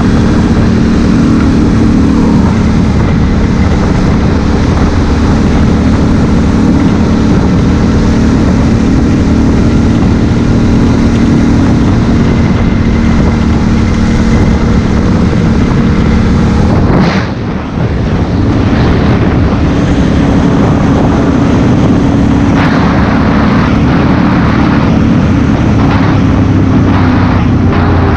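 Honda Africa Twin CRF1000L's parallel-twin engine running steadily under way, with road and wind noise. The engine note and level dip briefly about two-thirds of the way through.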